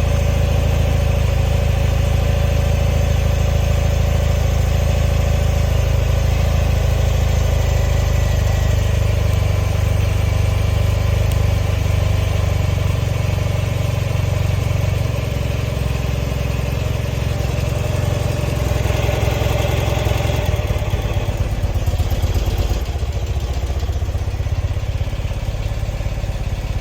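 A 1974 BMW R60/6's air-cooled flat-twin engine idling on choke just after a cold start, running steadily and a little rough. It swells briefly about twenty seconds in, then settles slightly quieter.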